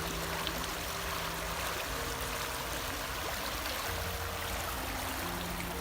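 Steady rush of flowing water, like a stream.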